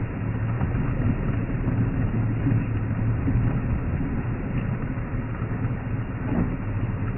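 Open safari game-drive vehicle driving along a dirt track, its engine running with a steady low hum under rumble and rattle.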